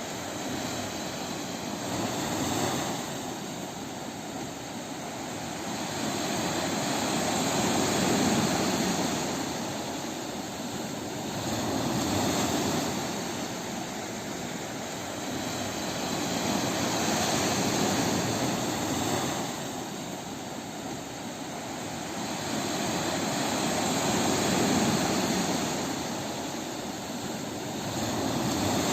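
Sea waves breaking on a beach: a continuous wash of surf that swells and eases every four to seven seconds.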